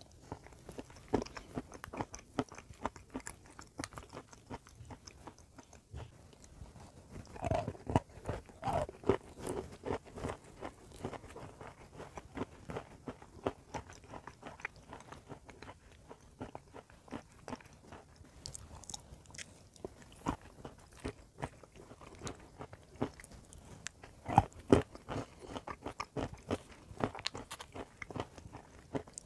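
Close-up crunching and chewing of a crumbly grey-and-white chalk-like mixture eaten from a spoon: a steady stream of small sharp crackles, with louder bursts of crunching about seven seconds in and again near twenty-five seconds.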